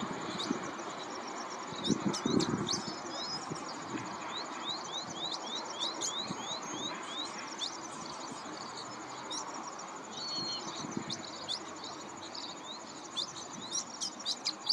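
Small birds chirping and calling over a steady outdoor hiss, with a quick run of about a dozen rising notes near the middle. A few low thuds about two seconds in.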